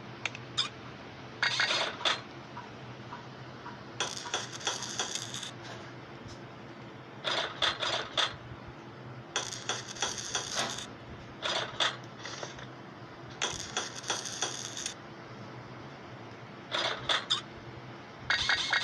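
Metal tools and parts clinking and clattering in short bursts every second or two, some of them quick runs of clicks, as hand work goes on on a vehicle's suspension.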